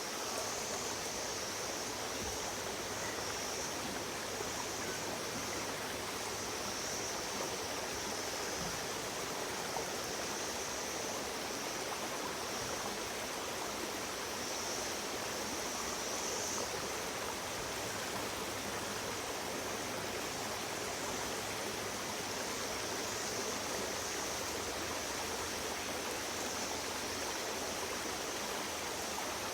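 Stream water flowing, a steady rushing sound that does not let up.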